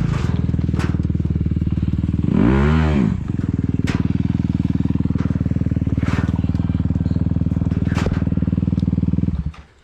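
Dirt bike engine idling, revved once briefly about two and a half seconds in, then shut off near the end. A few sharp clicks sound over the idle.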